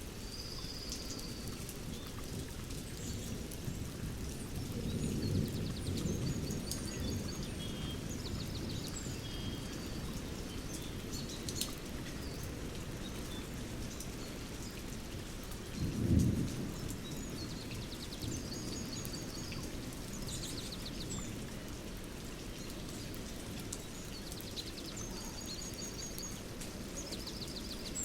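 Thunderstorm with steady rain, thunder rumbling around five seconds in and a shorter, louder rumble about sixteen seconds in, while birds sing repeated short chirping phrases over it.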